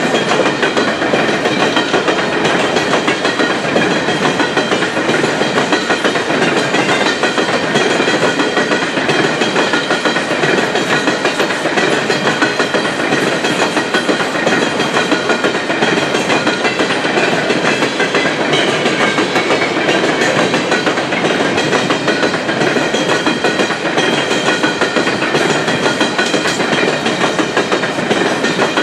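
Empty open-top coal cars of a long freight train rolling past: a steady, loud rumble and clatter of steel wheels on rail, with faint steady high tones above it.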